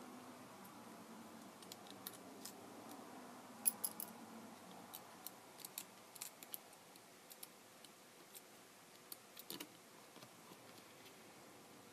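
Small tools and plastic parts of a Kindle Fire tablet handled during a screen repair: scattered, irregular sharp clicks and taps, loudest in a quick cluster about four seconds in.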